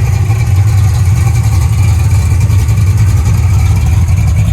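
Car engine idling with a steady, loud, deep rumble.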